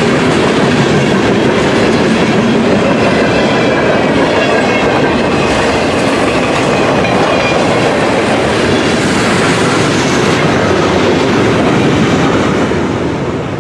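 Freight cars of a fast-moving mixed freight train rolling past, steel wheels clattering over the rails in a steady rushing din. The noise begins to fade near the end as the last car goes by.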